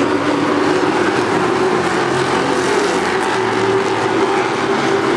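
NASCAR race trucks' V8 engines running at speed on track, a steady continuous engine noise with no let-up.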